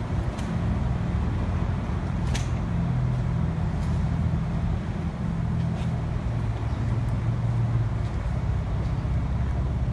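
Engine running steadily nearby: a low, even hum with a few faint clicks over it.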